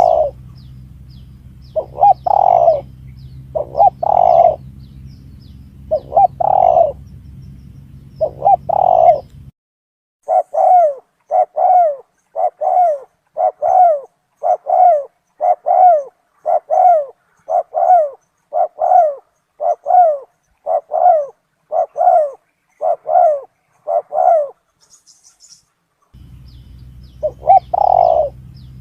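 Spotted dove cooing, a lure recording. It starts with spaced clusters of coos over a steady low hum. From about ten seconds in it switches to a fast, even run of short coos, about one and a half a second, for some fifteen seconds. The spaced coos and hum come back near the end.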